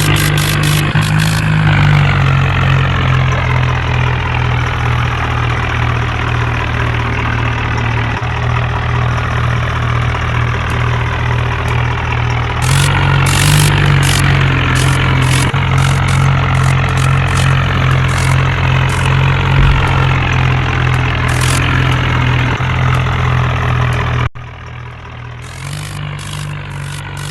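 Swaraj 841 tractor's diesel engine running steadily under load, with clatter over the top. About 24 seconds in, the sound cuts and turns quieter.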